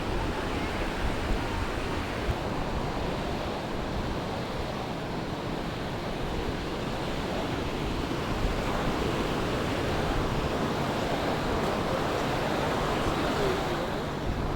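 Sea waves washing onto the beach in a steady wash, with wind on the microphone.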